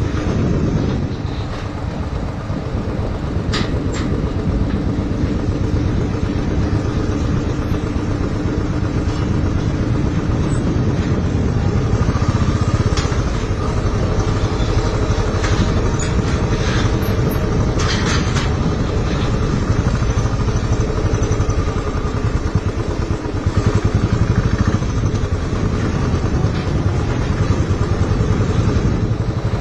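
Motorcycle running steadily while being ridden, a continuous loud rumble with a few short clicks and knocks scattered through it.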